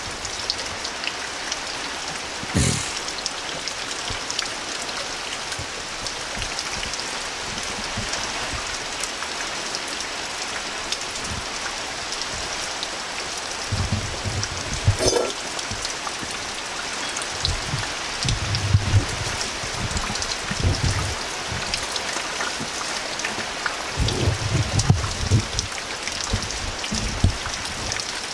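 Steady rain falling, an even dense hiss, with a couple of sharp clicks and clusters of low thumps in the second half.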